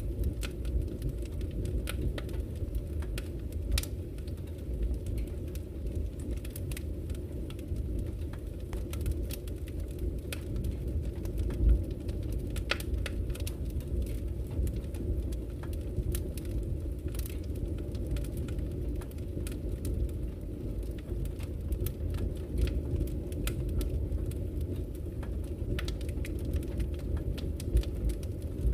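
Wood fire crackling, with frequent sharp pops and snaps at irregular times over a steady low rumble; one louder pop about twelve seconds in.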